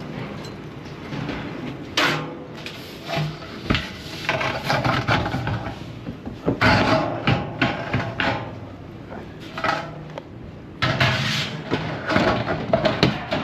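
Irregular knocks, scrapes and rubbing of building materials being handled, with louder clusters about two seconds in, midway and near the end.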